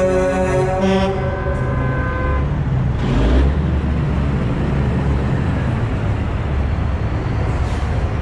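Truck air horns sounding a held chord of several notes that cuts off about two seconds in, followed by the steady low running of the trucks' diesel engines.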